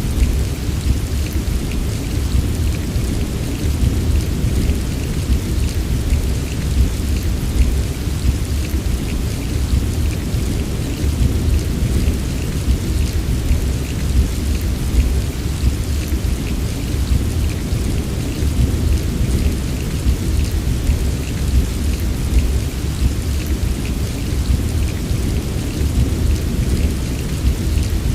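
Steady heavy rain, with a deep continuous rumble underneath and many small, sharp drop ticks scattered through it.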